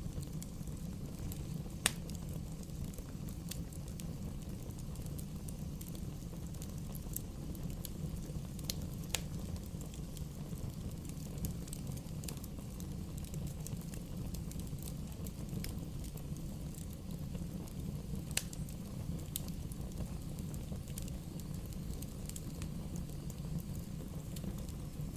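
Bonfire burning: a steady low rush of flames with scattered sharp pops and crackles from the wood, the loudest about two seconds in, about nine seconds in and near eighteen seconds.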